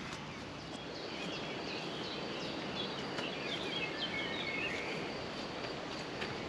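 A songbird singing a run of quick chirps and twitters for a few seconds, over a steady outdoor rushing background.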